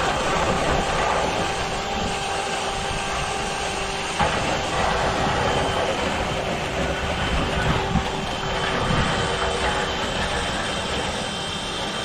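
A machine motor running steadily with a constant hum over a steady rush of noise, with two brief knocks about four and eight seconds in.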